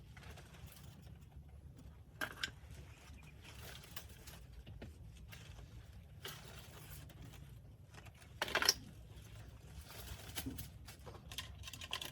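Faint scattered clicks and knocks of objects being handled, over a low steady hum, with a louder brief clatter about eight and a half seconds in.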